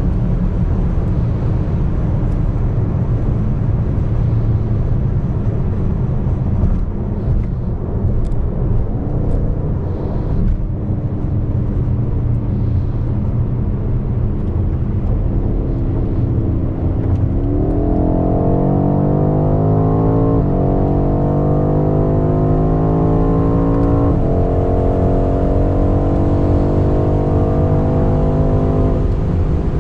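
BMW X5 M's twin-turbo V8 at a steady cruise with road and wind noise, then accelerating hard a little past halfway: the engine note climbs and drops back three times as the transmission upshifts, the last shift near the end.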